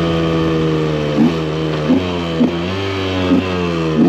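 KTM EXC 125 two-stroke single-cylinder engine under way, its pitch falling slowly as the bike slows, with about five short blips along the way.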